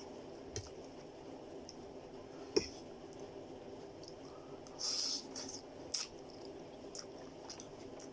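A man eating chicken chow mein noodles: wet chewing and small mouth clicks, with a brief louder noisy burst about five seconds in. A faint steady hum runs underneath.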